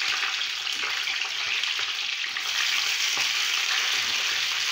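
Halved green chillies sizzling steadily in hot mustard oil in a small frying pan, a dense even hiss, as more chillies are laid into the oil.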